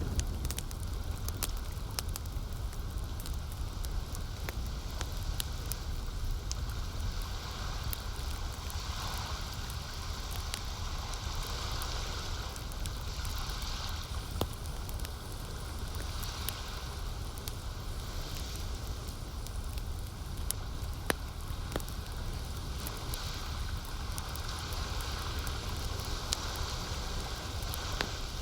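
Campfire crackling with scattered sharp pops over a low steady rumble, with soft washes of lake water lapping that swell every couple of seconds.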